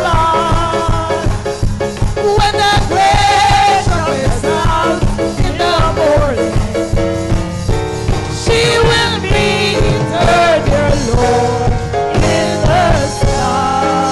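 Gospel music from a chorale with band accompaniment: voices singing over a steady, upbeat bass-and-drum beat.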